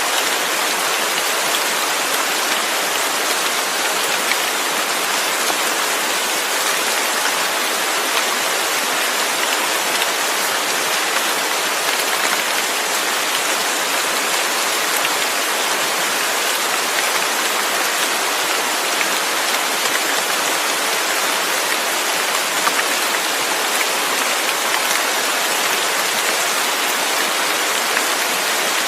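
Steady rain falling, an even dense hiss of many drops with faint individual drop ticks.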